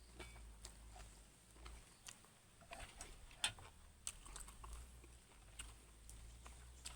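Quiet eating sounds: scattered soft clicks and taps, like spoon and chopsticks against a noodle bowl, with one sharper click about three and a half seconds in.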